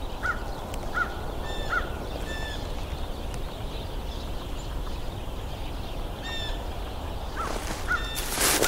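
Small birds calling: a few short chirps and call notes in the first couple of seconds, a lull, then more chirps after about six seconds, over a steady background noise.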